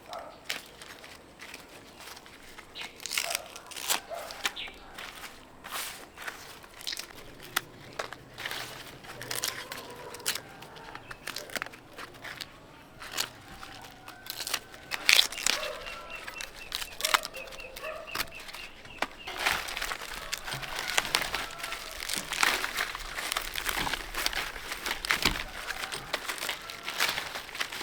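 Irregular rustling and crinkling with light clicks and knocks, as of hands handling leaves or produce, getting denser and louder in the second half.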